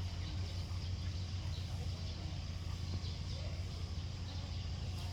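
Steady low rumble of outdoor background noise, with a few faint, scattered bird chirps.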